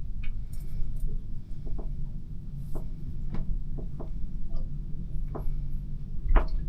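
Scissors snipping through a knot of tangled hair, a run of short sharp snips, over a steady low hum.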